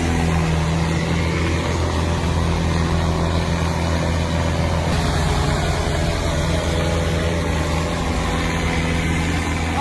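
Tractor engine running at a steady speed, with a low, even drone.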